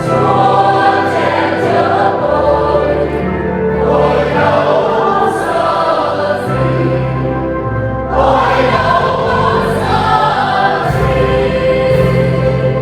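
Church choir singing a Vietnamese Catholic communion hymn in parts, over steady low held accompaniment notes.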